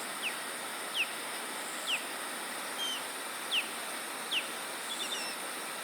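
A bird calling outdoors: a short, high downward-slurred note repeated about once a second, with a few flat chirps, over a steady high hiss.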